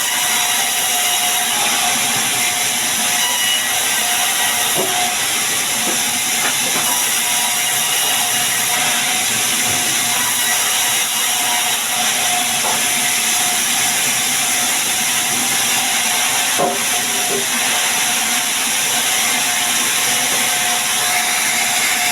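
Sawmill saw cutting sengon wood: a loud, steady hiss with a faint constant tone underneath, unbroken throughout.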